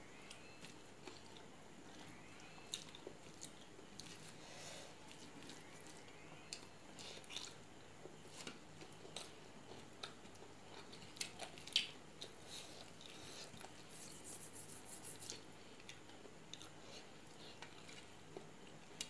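Faint close-up eating sounds: wet chewing and small mouth clicks as rice is eaten by hand, with fingers mixing rice on a steel plate. A sharper click comes a little past halfway, and a brief hiss about three quarters of the way through.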